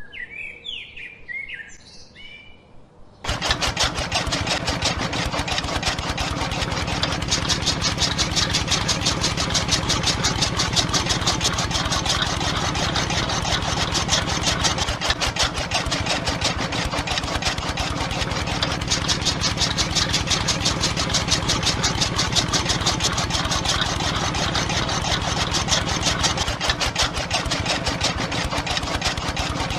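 Birds chirping faintly, then about three seconds in an engine starts abruptly and runs steadily with a fast, even chugging.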